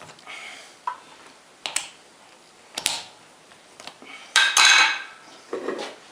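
Metal tools and parts being handled at a lathe: a few separate clinks and clanks of metal on metal, the loudest a short clatter about four and a half seconds in. No motor is running.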